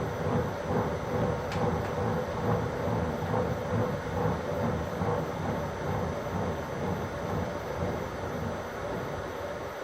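Milling machine table being raised: a steady mechanical rumble with a low hum that stops near the end.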